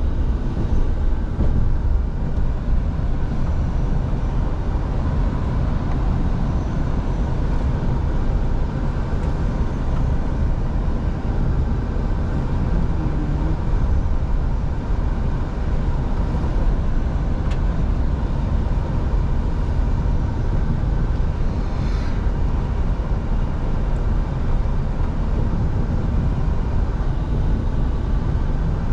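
Scania V8 diesel truck driving at a steady pace: a continuous low engine drone with road and tyre noise, holding even with no gear changes or revving.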